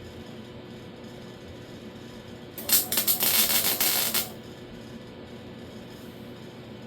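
Welding arc crackling for about a second and a half, a short weld or tack on the thin sheet-metal lower door skin, starting and stopping abruptly, over a steady low hum.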